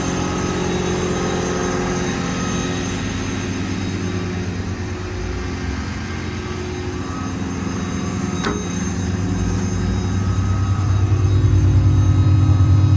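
Ford 6.7 Power Stroke diesel running with its PTO engaged, driving the service body's hydraulic air compressor: a steady mechanical hum. A single sharp click comes a little past halfway, and the sound grows louder and deeper about ten seconds in.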